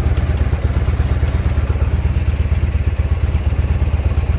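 Harley-Davidson V-twin motorcycle engine idling steadily, with a fast, even low pulse.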